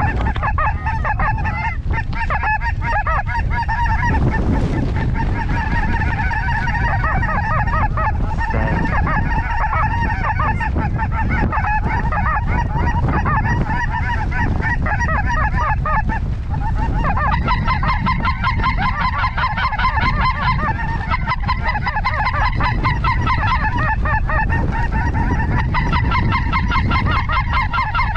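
A large flock of lesser snow geese calling all at once, a dense chorus of short overlapping honks that thins briefly about halfway through and then comes back fuller. Wind rumbles on the microphone underneath.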